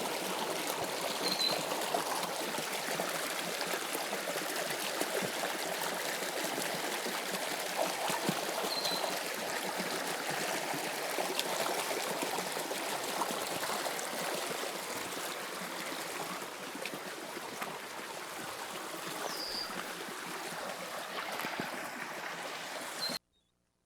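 Toronto subway Line 2 train running, heard from inside the car: a steady rushing noise with three brief high squeaks. The sound cuts off abruptly near the end.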